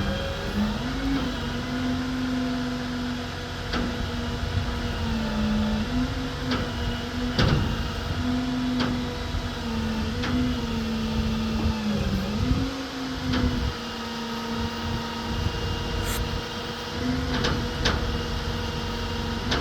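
Ram 5500 bucket truck's engine running, its pitch dipping and recovering every few seconds. Occasional sharp clicks sound over it.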